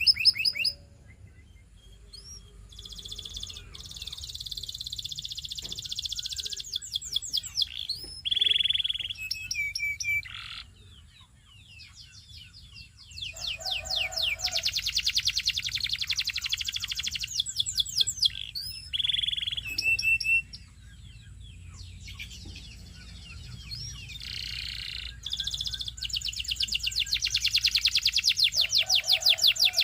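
A canary singing in long, rapid trills of evenly repeated high notes, in three main bouts broken by short pauses with scattered chirps and glides.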